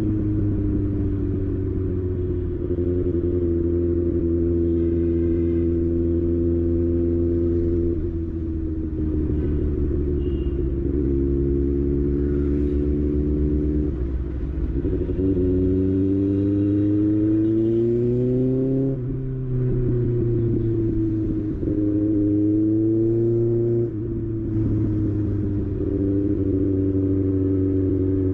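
Kawasaki ZX-6R's inline-four engine running under way, its pitch climbing and falling repeatedly and dropping suddenly twice in the second half.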